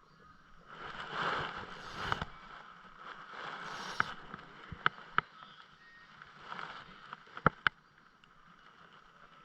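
Water sloshing and splashing in three short swells, with several sharp knocks, two of them close together near the end.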